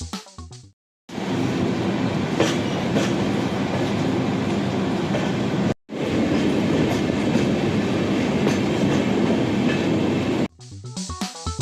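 A passenger train running along the track, a steady rumble with faint rail clatter, heard in two stretches split by a brief cut.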